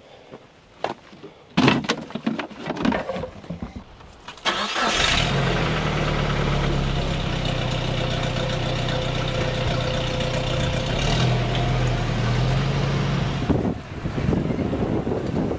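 A few knocks and clatters of gear being handled, then about four and a half seconds in an SUV's engine starts and idles steadily. Near the end the vehicle pulls away, with wind buffeting the microphone.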